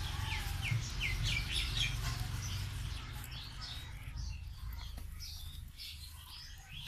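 Small birds chirping: a quick run of short chirps in the first two seconds, then scattered calls, over a low steady rumble.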